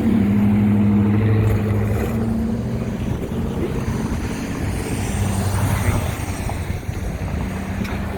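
An engine running at a steady low hum, with wind rushing on the microphone.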